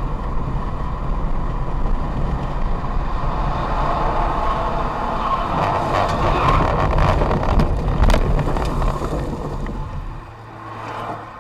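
Vehicle driving noise picked up by a dash cam: steady engine and road rumble with wind noise, a few sharp knocks about two-thirds of the way through, fading near the end.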